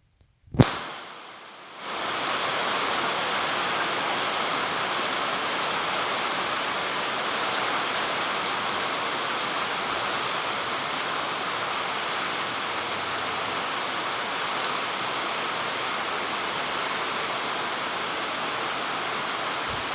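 A sharp knock or click about half a second in, then from about two seconds on a steady, even hiss of heavy rain falling.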